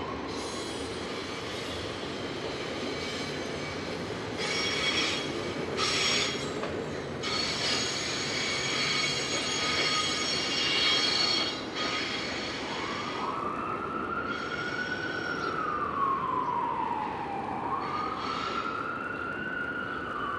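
Train running through with steel wheels squealing in high-pitched bursts that come and go for the first twelve seconds or so. After that the squeal stops and a siren wails, slowly rising and falling in pitch, over the continuing rumble.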